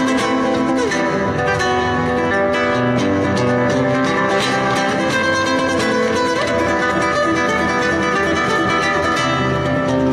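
Guitar playing a melodic passage, with a few notes sliding in pitch.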